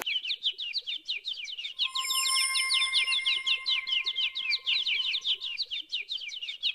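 Rapid, repeated falling bird chirps, about ten a second, with a steady high tone held under them from about two seconds in until about five and a half seconds in.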